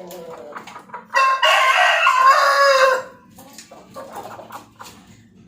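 Rooster crowing once: a single loud call of about two seconds, starting about a second in.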